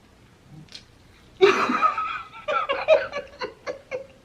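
A woman laughing out loud, starting about a second and a half in and breaking into a run of short bursts.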